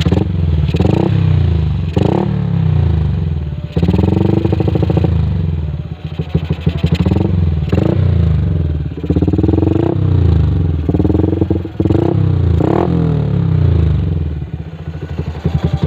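Yamaha Jupiter MX single-cylinder four-stroke motorcycle engine, bored out to 160cc, running through an aftermarket Kou Mahacai exhaust, revved in a string of short throttle blips that each drop back to idle.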